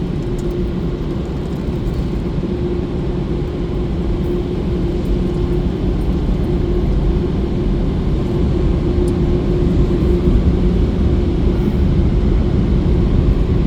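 Automatic car wash machinery heard from inside a car: a steady rumble with a constant hum, growing a little louder toward the end.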